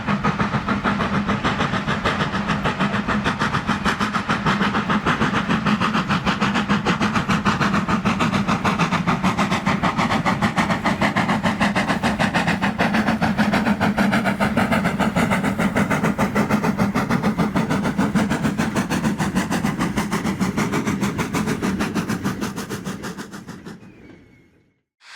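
Hawthorn Leslie 0-4-0 saddle tank steam locomotive working hard up a steep 1 in 19 bank with loaded mineral wagons: rapid, even exhaust beats from the chimney, fading away near the end.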